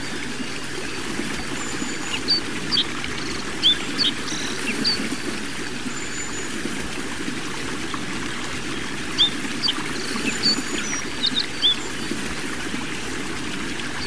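Small birds chirping in short, high, hooked notes, scattered in two spells, over a steady rushing noise like running water.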